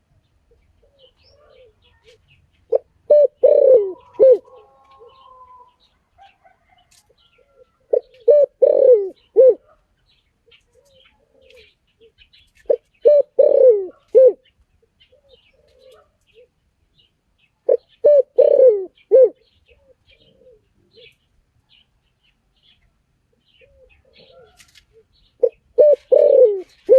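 Spotted dove cooing: five repeated phrases, each a quick run of several coo notes lasting about a second and a half, spaced roughly five seconds apart. Faint high chirps of other small birds are heard between the phrases.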